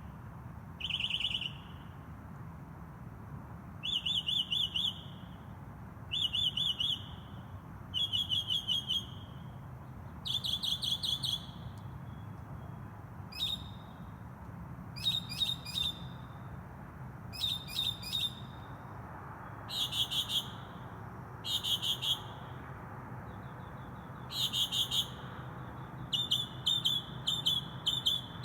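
A bird singing: short phrases of fast repeated high notes, one every two seconds or so, each phrase a little different from the last, over a steady low hum.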